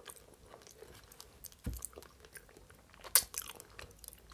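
Close-miked chewing of soft lasagna, with wet mouth clicks and smacks. A metal fork cuts and taps in the plastic tray, with a louder sharp click about three seconds in.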